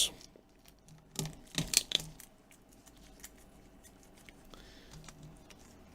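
A few light clicks and taps from handling the tablet and its parts, clustered between about one and two seconds in, then faint room tone with an odd soft tick.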